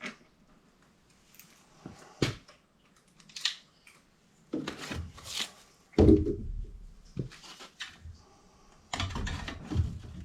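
Intermittent knocks, clatters and scrapes of metal coil panels and tools being handled, with one heavy thump about six seconds in.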